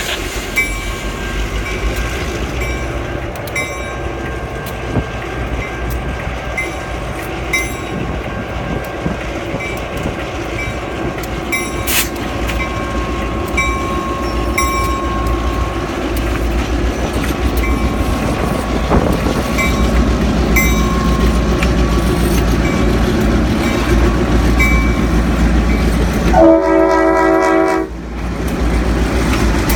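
Loaded freight train led by diesel locomotives rolling by with a steady low rumble and regular wheel clicks over the rail joints. Near the end a five-chime RS5T air horn sounds a chord for about a second and a half, then starts again just before the end.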